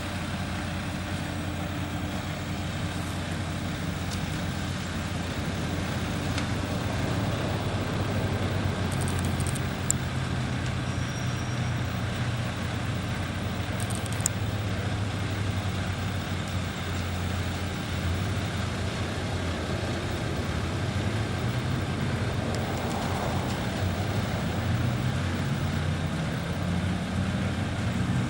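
Steady rumble of highway traffic mixed with a close running engine. Two short sharp clicks come about a third and half of the way in. Near the end an engine's pitch rises for several seconds.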